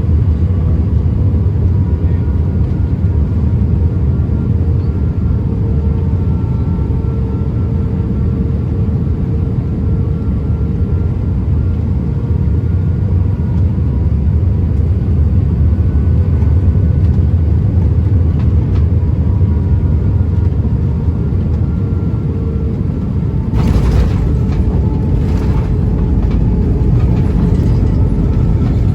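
Airbus A319 cabin noise: a loud, steady low rumble of the engines and airflow, with faint steady whining tones above it. About 24 seconds in, a sudden knock and rattle changes the rumble.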